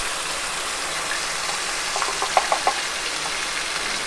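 Ground onion-tomato paste sizzling as it hits hot oil with cumin and mustard seeds in a kadhai: a steady hiss, with a few short clicks about two seconds in.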